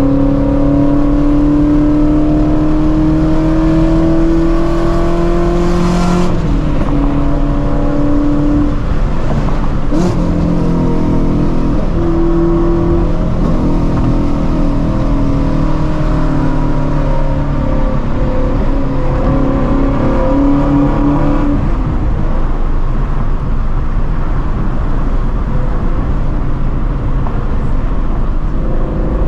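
2016 Shelby GT350's 5.2-litre flat-plane-crank V8 with long-tube headers, heard from inside the car under way: the note rises steadily through a gear, breaks at a shift about six seconds in, climbs and eases a few more times, then settles into a steady cruising drone for the last several seconds.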